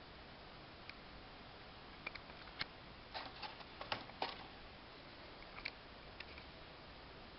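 A scattered run of small, sharp clicks and taps over a faint steady hiss, like light objects being handled.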